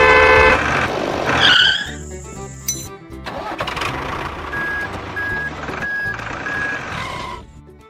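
Cartoon sound effects over background music: a loud vehicle horn toot that cuts off about half a second in, then a short gliding squeak. Music with a steady bass follows, with four short beeps in the second half.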